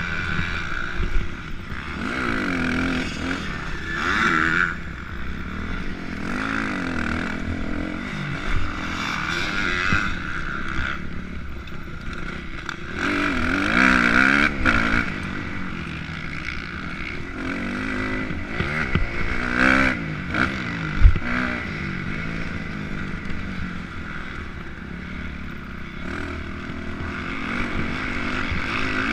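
Motocross dirt bike engine revving up and down repeatedly under hard riding, with wind rush and the clatter of the bike over a rough track. A sharp knock comes about two-thirds of the way through.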